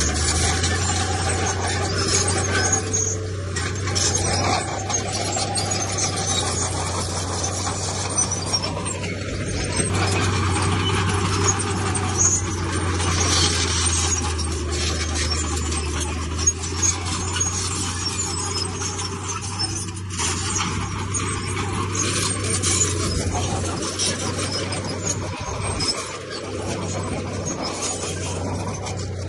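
Komatsu D31P crawler bulldozer at work: its diesel engine runs steadily under the scraping squeal and clatter of its steel tracks, with frequent clanks.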